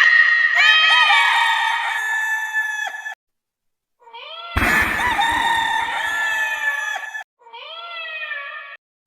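Long drawn-out animal calls, each sliding up and then holding its pitch, in three separate stretches with abrupt cuts to silence between them; the loudest is about halfway through.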